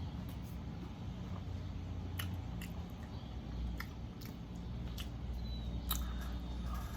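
A person chewing a mouthful of taco close to the microphone, with a handful of sharp mouth clicks and crunches, over a low steady hum.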